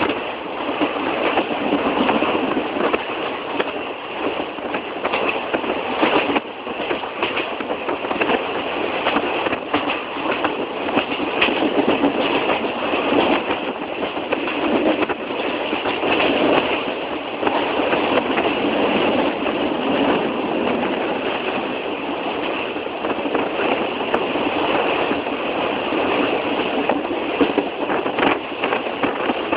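Old passenger train running along the track: a steady rattle and rumble with scattered sharp clicks.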